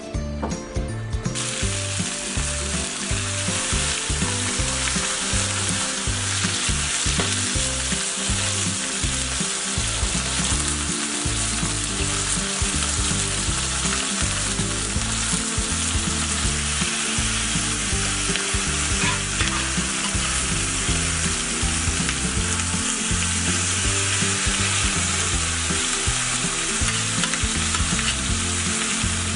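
Whole chickens frying in hot oil in a wide pan, a steady sizzle that starts about a second in.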